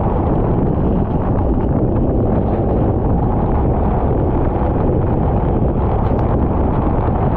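Steady, loud wind rush buffeting the microphone of a camera on a racing kart at speed, with the kart's running noise mixed in underneath.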